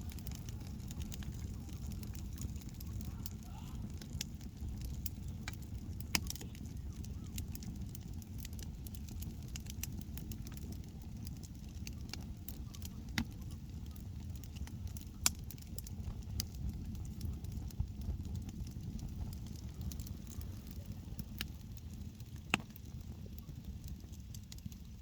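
Campfire burning: a steady low rumble with irregular sharp crackles and pops, a few of them louder.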